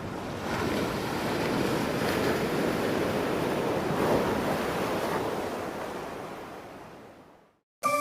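Steady rushing noise that fades in, holds with gentle swells, and fades out to a moment of silence; music starts abruptly right at the end.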